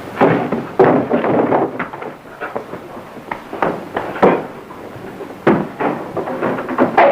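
An irregular run of sharp knocks, bangs and thuds, a dozen or so over several seconds, over a crackly old optical film soundtrack.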